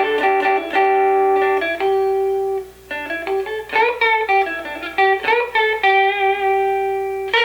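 Fender Stratocaster electric guitar played clean on its middle pickup, which has no tone control wired to it, picking a riff of single held notes. It sounds pretty bright.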